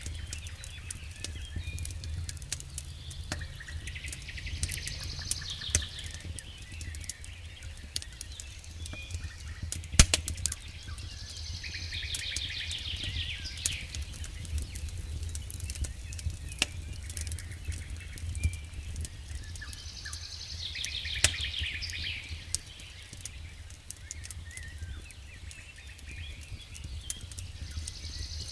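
Campfire crackling with frequent small pops and one louder pop about ten seconds in, over a low steady rumble. A bird sings a short trilling phrase that drops in pitch, about every eight seconds.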